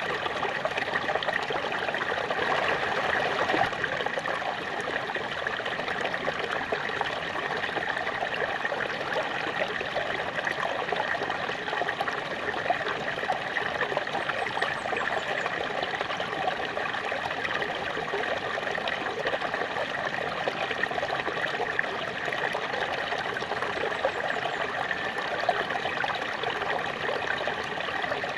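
Small waterfall splashing steadily, an even rush of falling water with fine trickling detail.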